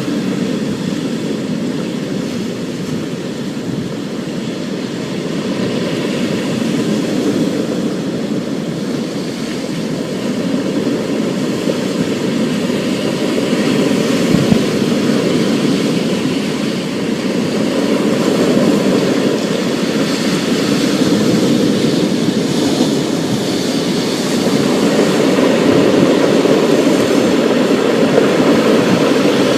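Thunderstorm recording: a continuous hiss of rain over a low rumble that swells and eases several times.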